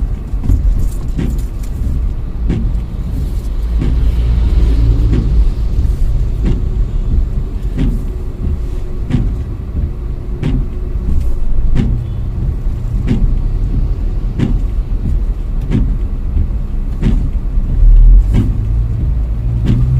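Car driving, heard from inside the cabin: a steady low road and engine rumble, with a regular click about one and a half times a second.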